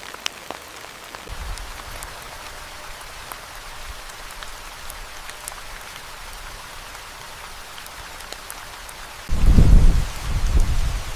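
Steady rain, with single drops striking close by now and then. About nine seconds in, a loud low rumble sets in suddenly, eases briefly, then comes back.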